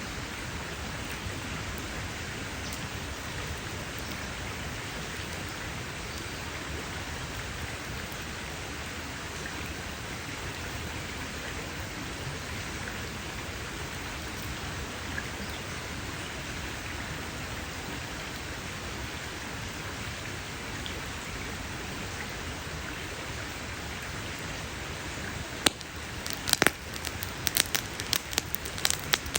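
Campfire burning with a steady hiss, then near the end a quick run of sharp crackles and pops from the burning wood.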